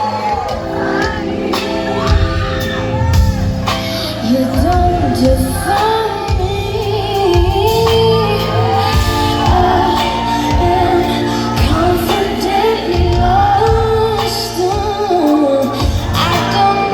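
Live concert music: a woman sings a slow pop/R&B melody over a band with a steady bass and a slow drum beat, heard in a large hall.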